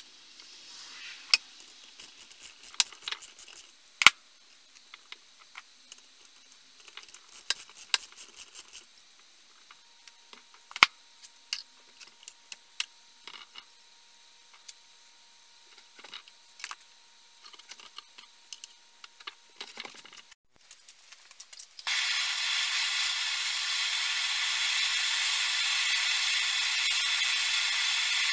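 Scattered small clicks and knocks of metal parts and tools being handled. About three quarters of the way in, a steady loud spraying hiss starts suddenly and keeps going.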